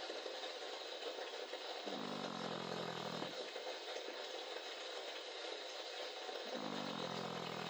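A dog snoring in its sleep: two drawn-out, pitched snores about four and a half seconds apart, each dropping slightly in pitch, over a steady hiss.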